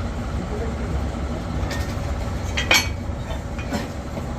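A steady low rumble of machinery with a few sharp metal clinks, the loudest pair close together about two and a half seconds in.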